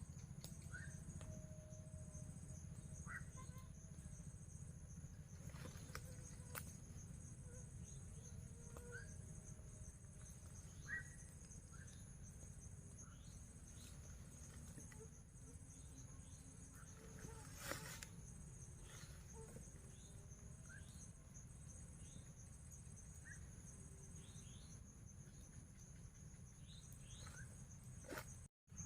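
Faint insect chorus: a steady high-pitched drone with an evenly pulsing insect call above it, scattered short rising chirps, and a low steady hum underneath. A faint click or knock comes about six seconds in and again past the middle.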